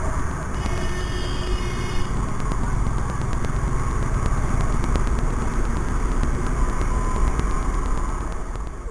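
Motorcycle ride noise: steady wind rush and low engine and road rumble. A brief high-pitched tone is heard from about half a second to two seconds in.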